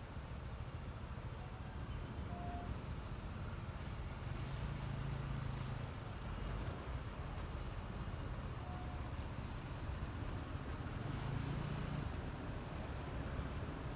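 Honda ADV 150 scooter's single-cylinder engine running on the move, under a steady low road and wind rumble; the engine note swells briefly twice, about five and eleven seconds in.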